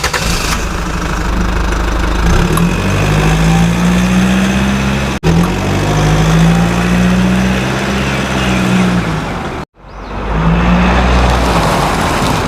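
An engine running with a steady low hum that rises and falls slightly in pitch, cut off abruptly twice.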